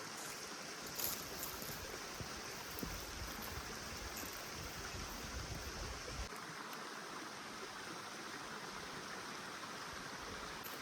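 Steady rushing of flowing water, like a stream, with a few faint clicks; a low rumble under it drops out about six seconds in.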